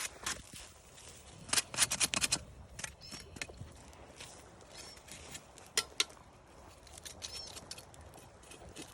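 Sharp clicks and snaps, a quick cluster of them about a second and a half in and a single loud one near the end, over a faint outdoor background with a few short chirps.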